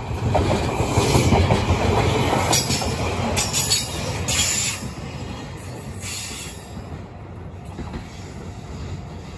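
JR Kyushu electric multiple-unit train running past at close range: a loud rumble of wheels on rail with a few brief high-pitched wheel squeals, easing off about five seconds in to a quieter, steady train noise.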